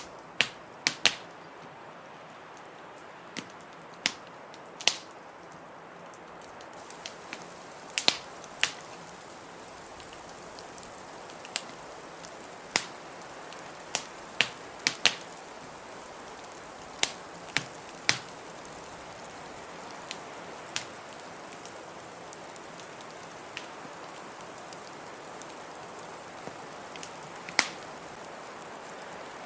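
Wood fire crackling in a fireplace, with irregular sharp pops and snaps, over the steady hiss of blizzard wind.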